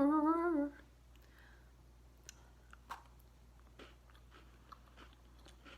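A short voiced hum at the start, then a person quietly chewing a salted caramel Twix bar, with scattered faint crunches and mouth clicks.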